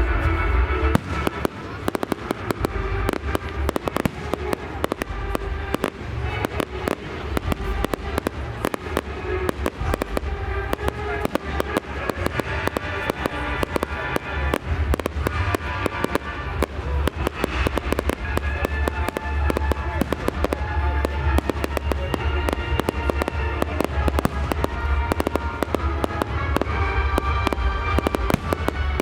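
Fireworks display: a rapid, continuous barrage of bangs and crackles with a deep rumble, over film-theme music playing in the background.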